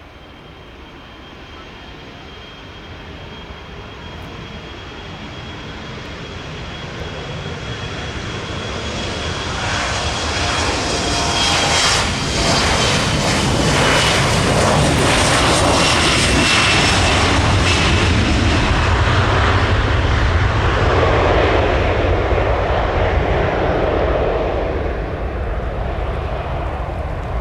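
Embraer E175 regional jet's two turbofan engines at takeoff power, growing steadily louder as it approaches, loudest through the second half, then easing slightly near the end. A thin high whine drifts slowly down in pitch as it passes.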